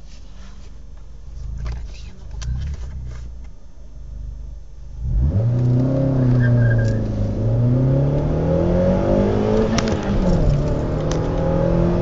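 SEAT Ibiza Sport idling with a few clicks, then launched hard from a standstill about five seconds in. The engine revs climb through the gears, dropping at two gear changes and rising again. The exhaust is stock apart from an aftermarket rear silencer.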